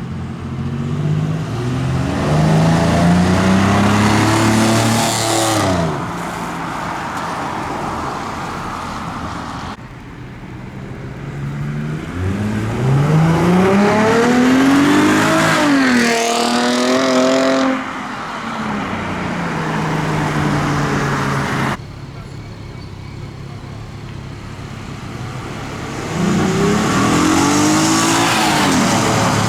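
Cars accelerating hard one after another, each engine revving up with a steeply rising pitch before it drops away. The clips are separated by abrupt cuts.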